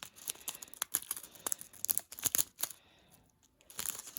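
Crinkling and crackling of small plastic packs of diamond painting drills being handled, in irregular bursts with a short pause about three seconds in.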